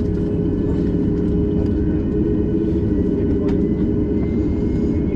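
Cabin noise inside a Boeing 737 MAX 8 on the ground: a steady rushing hum with a constant drone and a faint whine that rises slowly in pitch.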